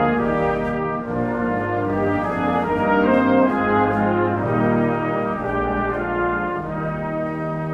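Instrumental music led by brass, playing held chords that change every second or two.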